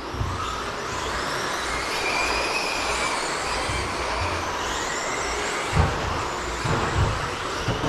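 Several 1/10-scale electric stadium trucks with 13.5-turn brushless motors racing around the track: motor and drivetrain whine rising and falling as they accelerate and brake, over the rush of tyres on the surface, with a few low thumps in the second half.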